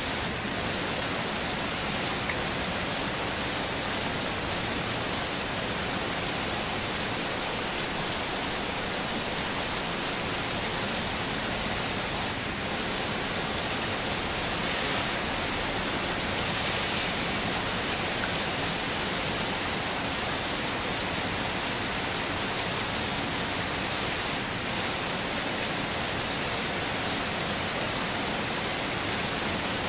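Heavy rain falling steadily, a dense, even hiss. Three times the sound dips for a split second, about twelve seconds apart.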